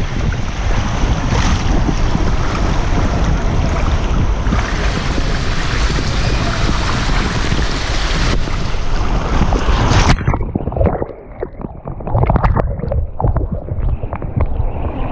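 Loud rush of wind and water on a camera microphone during a water-slide ride. About ten seconds in it cuts off sharply into a duller, fluttering noise.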